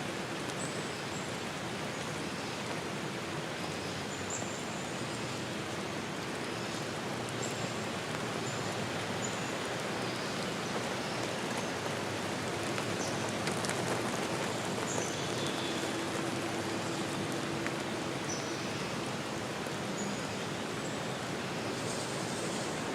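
Forest stream flowing with a steady rush of water. Brief high chirps come and go over it.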